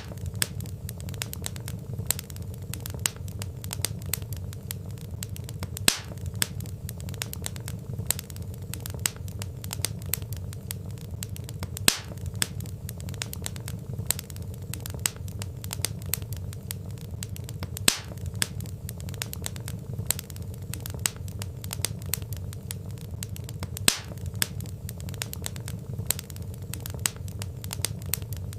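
Wood fire crackling: frequent sharp pops and snaps from burning logs over a steady low rumble.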